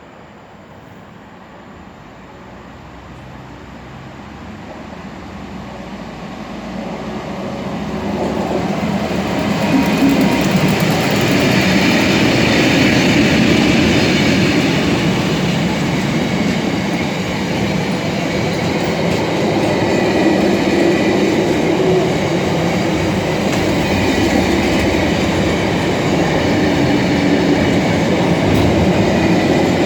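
Class 59 diesel locomotive, with its EMD two-stroke V16 engine, hauling a heavy stone train. It grows steadily louder over the first ten seconds as it approaches. Then the long train stays loud as it rolls past, with the rumble and clatter of wagon wheels on the rails.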